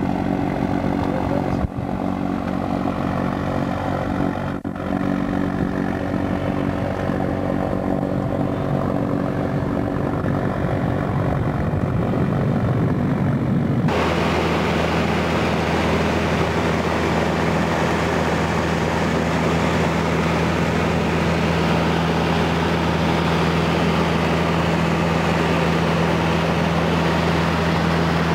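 Small propeller airplane's engine running steadily with an even drone. About halfway through the sound changes abruptly to a louder, steadier engine drone with more rushing noise.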